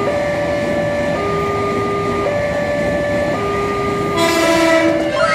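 Railway level-crossing alarm chiming two alternating tones, changing about once a second, over the noise of a commuter train running through the crossing. About four seconds in, a loud train horn sounds, and its pitch starts falling near the end as the train goes by.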